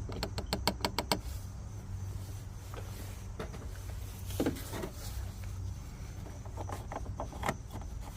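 A quick run of about eight sharp clicks in the first second, then a few scattered knocks and clatters, over a steady low hum.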